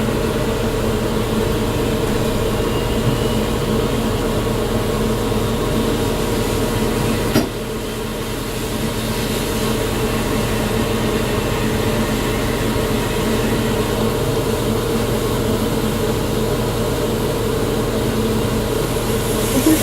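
Steady rumble and hum of a Welsh Highland Railway heritage train, with a single sharp click about seven seconds in, after which it runs a little quieter.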